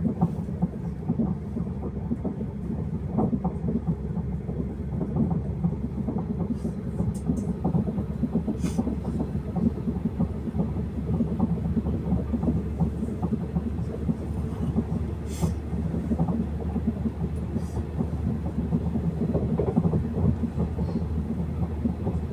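Train running along the track, heard from on board: a steady low rumble of wheels on rail with a few faint ticks.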